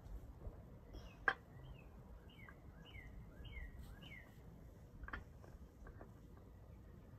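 A songbird singing: a quick series of about six short, falling notes, roughly two a second. A sharp click a little over a second in is the loudest single sound, with a weaker click about five seconds in.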